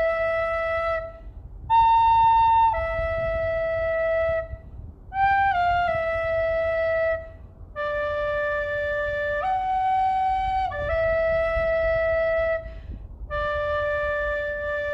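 Flute playing a slow, simple melody of long held notes, in short phrases with brief pauses between them.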